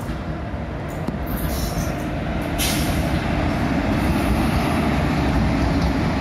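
Indian Railways WAP-4 electric locomotive passing close by with its train: a steady rumble of wheels on rail and running gear that grows louder as the locomotive draws level, with a brief burst of hiss about two and a half seconds in.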